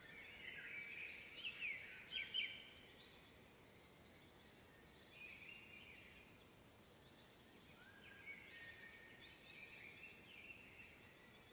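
Faint songbird chorus in a spring forest: several birds singing, with a burst of quick descending notes in the first few seconds, more phrases later, and a repeated thin high call throughout.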